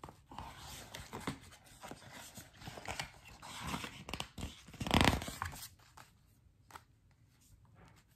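A paper page of a picture book being turned and smoothed flat by hand: rustling and sliding paper, loudest in one swish about five seconds in.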